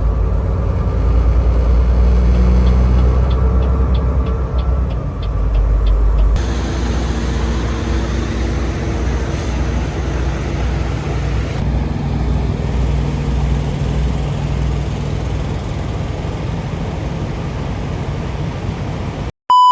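Semi truck running: a steady low engine drone with road noise, changing abruptly twice as one short clip gives way to the next. A short electronic beep right at the end.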